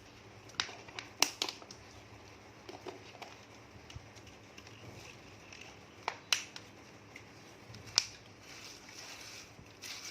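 Scattered sharp clicks and clacks of food and tableware being handled while eating, with the loudest pair of knocks just after a second in and single loud ones about six and eight seconds in.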